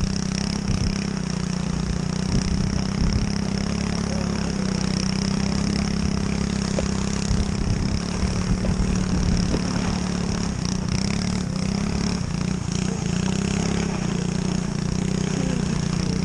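Pit bike engine running steadily at a constant speed, with no revving up or down.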